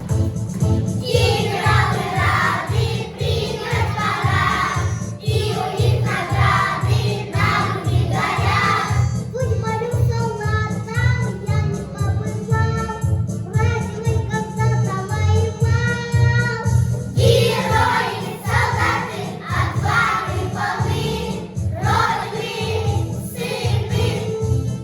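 A children's vocal group singing over an accompaniment with a steady beat. Near the middle the voices drop out for an instrumental passage of about eight seconds, then come back in.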